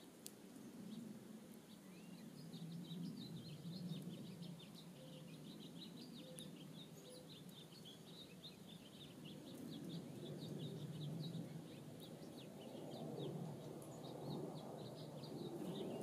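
Faint high chirps of small birds in a quick, irregular twittering run, over a low steady background rumble that grows louder in the second half.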